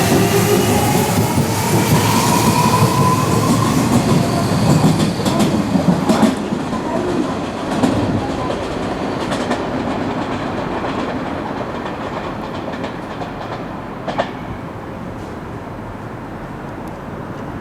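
Hanshin 5700 series electric train pulling out of the station: its motor whine rises in pitch over the first few seconds as it accelerates, and its wheels clatter over the rail joints with a few sharp clicks. The sound fades steadily as the train draws away.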